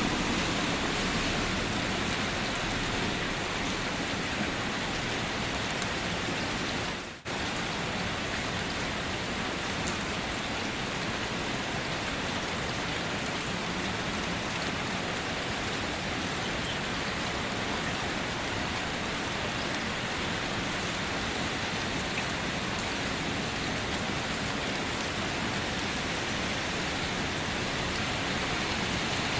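Steady rain falling, an even hiss of drops. About a quarter of the way through it fades down briefly and cuts straight back in.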